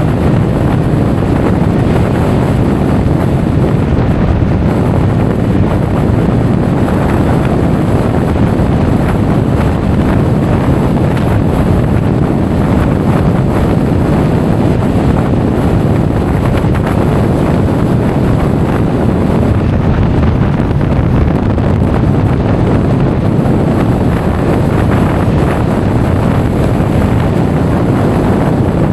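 Steady, loud wind buffeting an action camera's microphone while riding a motor scooter at speed.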